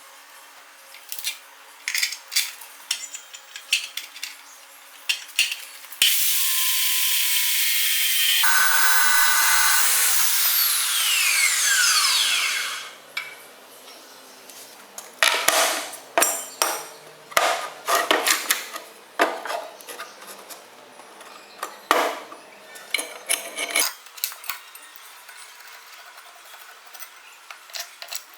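An electric power tool runs loudly for about four seconds, is switched off and winds down with a falling whine over about three seconds. Before and after it, metal pieces clink and clatter as they are handled.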